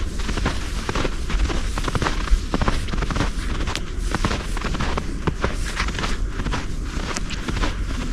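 Wind buffeting the microphone in a steady low rumble, with irregular crunching footsteps in snow.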